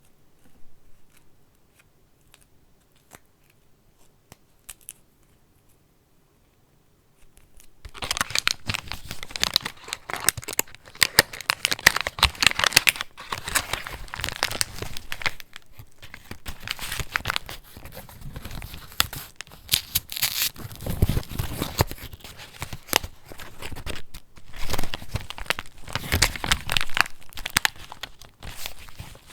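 Paper from a handmade junk journal being handled. A few faint light taps, then about eight seconds in a loud, continuous crinkling and tearing-like rustle of paper that runs on in uneven waves.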